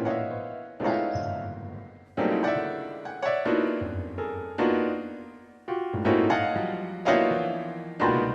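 Piano playing slow, sad music: one chord struck about every second and left to ring and fade before the next.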